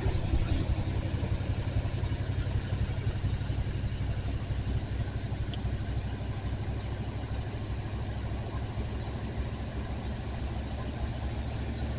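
1974 Ford F-350's 390 cubic-inch FE V8 idling steadily with an even low pulse while it warms up after a cold start.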